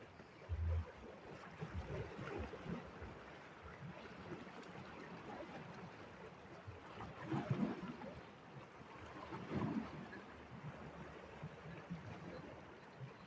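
Faint moving water, lapping or splashing, with a couple of brief louder swells about seven and ten seconds in.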